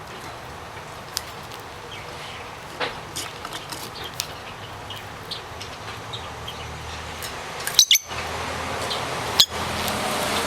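Lovebirds giving short scattered chirps and tapping and clicking about, with a few sharp clicks near the end, over a low steady hum.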